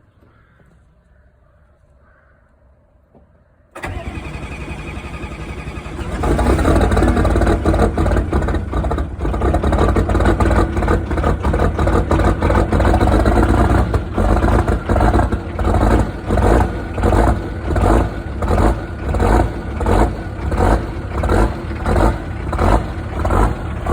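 Nissan Patrol 3.3-litre turbodiesel, fitted with bigger injectors and a modified fuel pump, starting from cold. About four seconds in the starter cranks, the engine catches about two seconds later and runs loudly. From about halfway its sound swells and dips steadily, about one and a half times a second.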